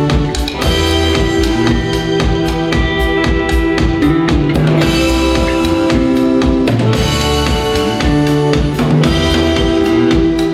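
A live rock band playing an instrumental passage: a drum kit keeps a steady beat with bass drum and snare under bass and long held chords.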